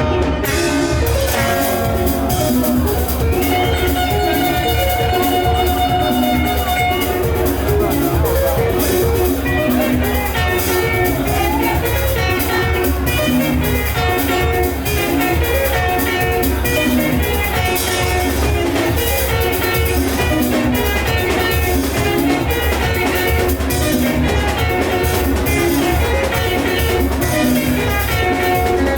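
Live band music: guitar lines over bass and drum kit with a steady beat.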